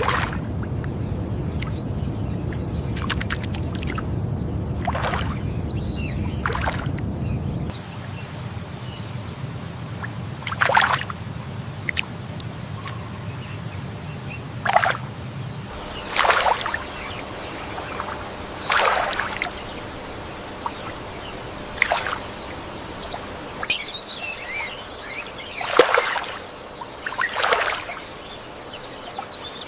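Birds calling over steady outdoor ambience: short, loud calls that sweep downward, one every second or two. A low, water-like rush lies under the first several seconds, and the background changes abruptly a few times.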